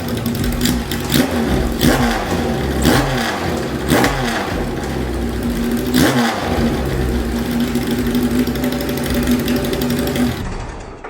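Kawasaki Z1-R's air-cooled inline-four running through a straight pipe with the silencer removed. The throttle is blipped several times, each rise in revs falling back to idle, and then it idles steadily for a few seconds before the sound fades out near the end.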